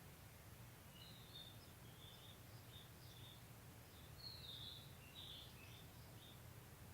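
Birds chirping faintly outdoors in short, scattered high calls, busiest about four to five seconds in, over a steady low background rumble.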